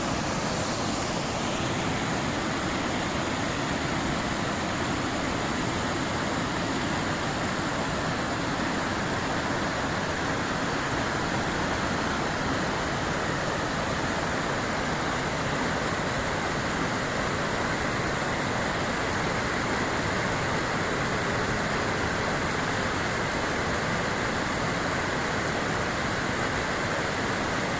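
Steady rush of a waterfall and whitewater rapids, an even roar of falling and churning water with no changes.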